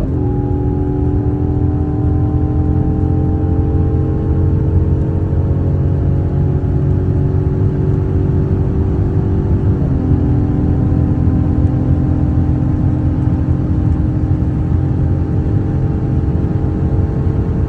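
Mercedes C43 AMG engine pulling hard at high Autobahn speed, its pitch climbing slowly in a high gear. It drops suddenly at two upshifts, one right at the start and one about ten seconds in. A heavy low rumble of wind and road noise runs under the engine.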